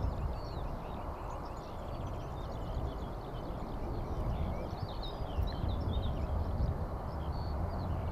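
Small birds chirping and twittering in quick, short calls over a steady low rumble.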